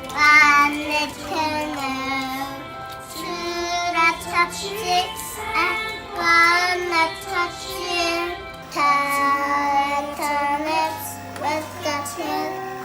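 A child's voice singing a children's English song about parts of the face, over an instrumental accompaniment.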